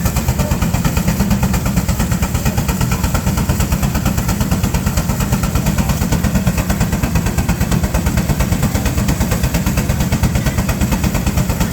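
Steam traction engine working hard against a Baker fan on the belt, its exhaust beating rapidly and evenly at a steady pace.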